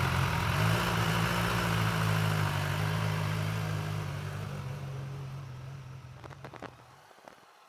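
Triumph Tiger 800 XRT's three-cylinder engine running steadily with a hiss over it, fading gradually away over the last few seconds.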